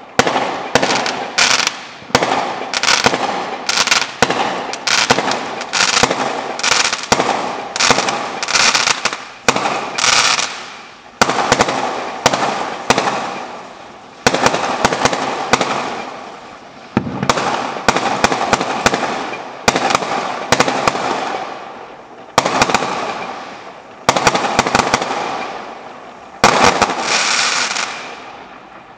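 Aerial fireworks going off in quick succession: a steady run of sharp reports, about one to two a second, each dying away in a crackling tail. Near the end a last cluster of shots fades out.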